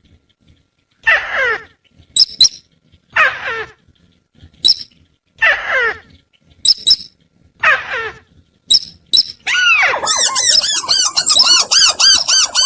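Recorded bird-lure calls of sintar and tikusan birds: a descending, harmonically rich call about every two seconds, alternating with short high double chirps. Near the end a fast, continuous run of repeated arched notes takes over.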